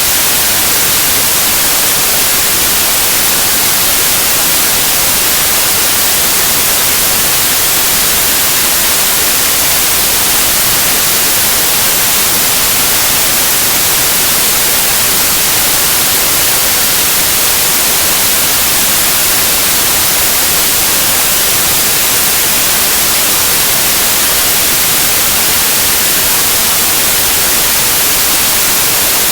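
Steady white noise: an even, unbroken hiss, loudest in the high end, with no change in level or character.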